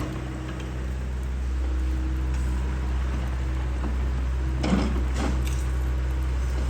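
Excavator's diesel engine running steadily at work, with a cluster of knocks and crunches of debris about two-thirds of the way through.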